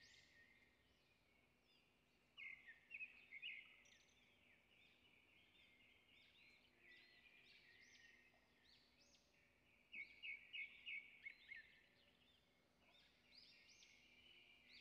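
Faint chirping of small birds. Rapid chirps come in two short bursts, a few seconds in and again about ten seconds in, with scattered softer chirps between.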